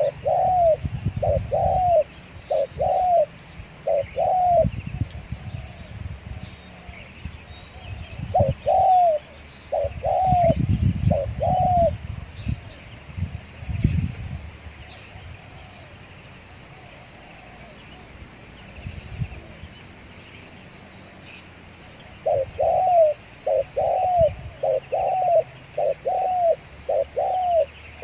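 Spotted doves (tekukur) cooing: short arched coo notes repeated in phrases, a quieter gap through the middle, then a long, quicker run of coos near the end. Low rumbling comes and goes in the first half.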